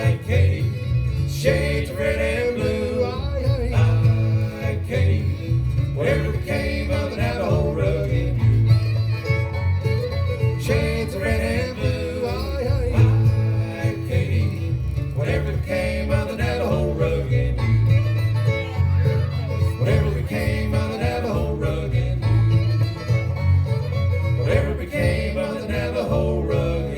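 Live bluegrass band playing an instrumental break with no singing: fiddle, banjo and guitar over a steady bass beat.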